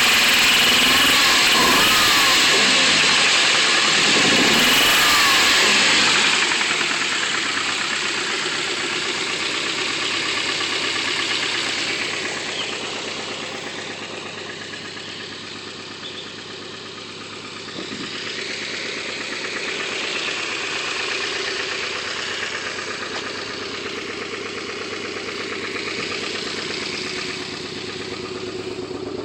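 Nissan KA24 inline-four breathing through an Apexi N1 dual-tip exhaust, revved a few times and then settling to a quieter idle about six seconds in. The engine has rod knock.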